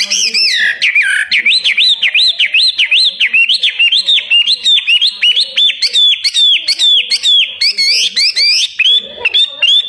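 Caged songbird singing a fast, unbroken run of repeated whistled notes, each a quick sweep in pitch, about three a second and quickening near the end.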